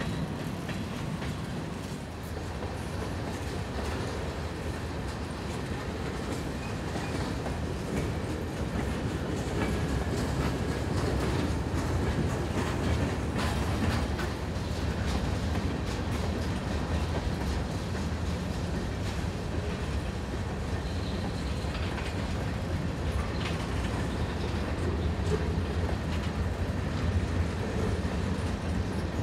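A train rolling by: a steady low rumble with the wheels clicking over rail joints.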